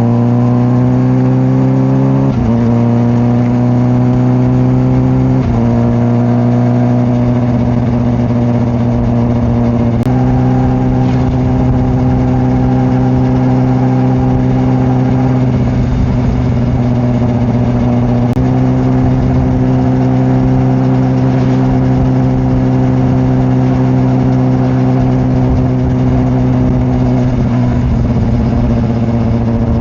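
Honda CBR600RR's inline-four engine under way. It rises in pitch at first, then shifts to new steady pitches a few times and otherwise holds an even cruising note, with wind rumble underneath.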